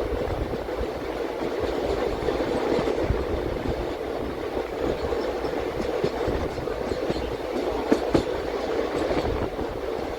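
Passenger train coach running along the track, heard from aboard: a steady rumble of wheels on rail with scattered light clicks, and two sharper knocks about eight seconds in.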